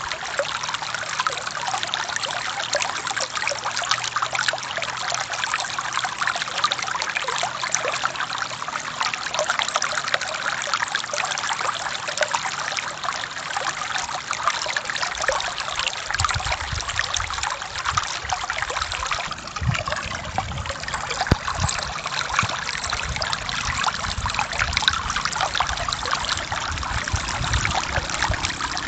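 River water running and trickling steadily. From about halfway through, a low, uneven rumble joins underneath.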